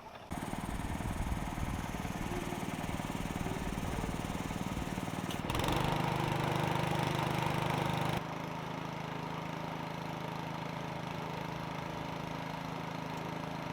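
A boat engine idling steadily. It gets suddenly louder about five and a half seconds in and drops back suddenly a few seconds later.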